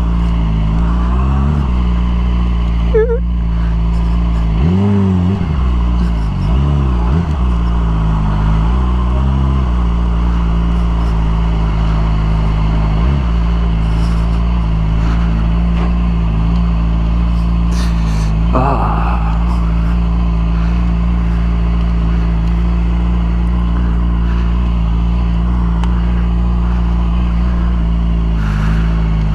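Yamaha R6 sport bike's inline-four engine running steadily, with a few brief rises and falls in engine pitch.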